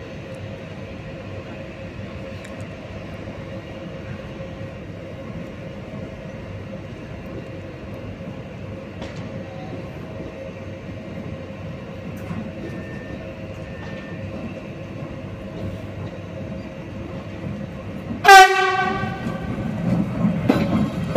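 Train at a station with a steady hum from the standing locomotive, then one short, loud train horn blast about 18 seconds in, followed by louder rumbling.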